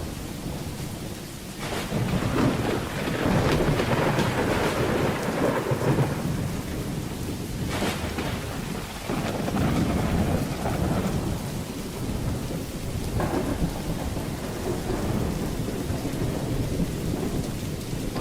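Thunderstorm: steady heavy rain with rolling thunder. A long rumble builds about a second and a half in, and another swells about halfway through.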